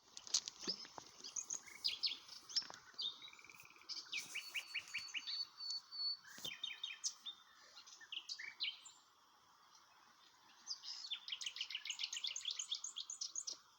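Several small birds chirping and singing, with quick rattling trills just after four seconds in and a longer run of trills from about eleven seconds; a short lull a little before halfway.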